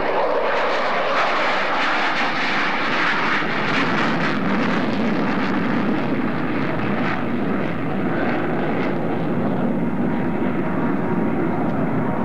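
F-14D Tomcat jet fighter's twin turbofans roaring during a power departure. The high hiss of the roar dies away after about five seconds, leaving a lower steady rumble.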